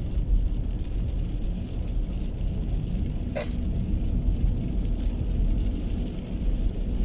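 Heavy rain falling, a steady hiss over a low continuous rumble, with one sharp tick about three and a half seconds in.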